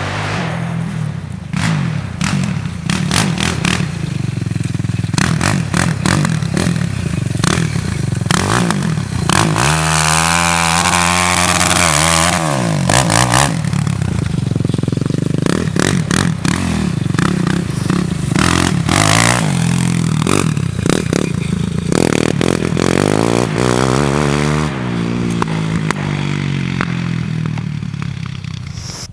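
ATV engine running under throttle, its pitch sweeping up and down as it revs, mixed with frequent clattering and knocking.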